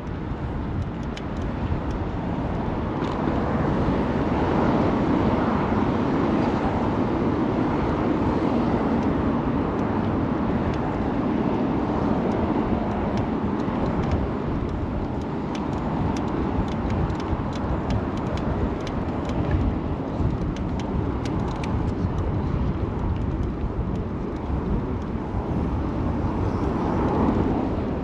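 City road traffic heard from a moving bicycle: a steady rumble of passing cars and street noise, a little louder a few seconds in.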